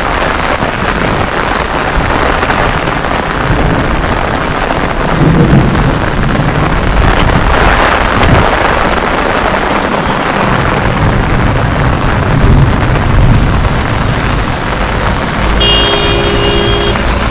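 Heavy rain pouring down: a loud, steady hiss with a low rumble underneath. A short tone sounds briefly near the end.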